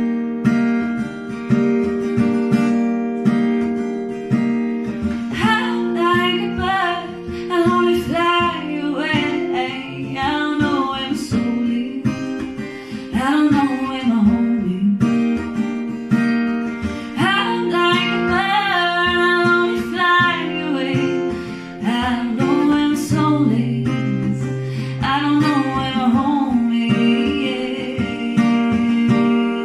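Acoustic guitar strumming with a voice singing phrases over it; the singing stops in the last few seconds, leaving the guitar alone.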